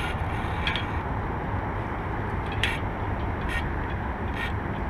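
Wind and riding noise from a mountain bike. A short light scrape comes back about once a second as the wheel turns: the wheel is rubbing and needs adjusting.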